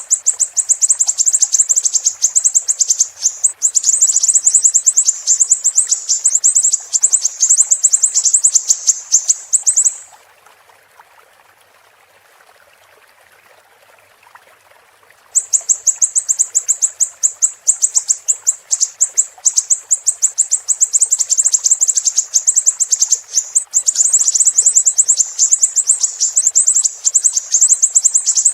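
Siri-siri bird song: long runs of rapid, very high-pitched chirps, many a second, over a faint steady hiss. The song breaks off about ten seconds in, leaving only the hiss for about five seconds, then resumes.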